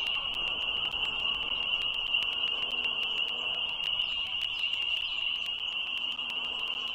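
A steady, high-pitched chorus of frogs trilling together without a break, with sharp little clicks scattered through it.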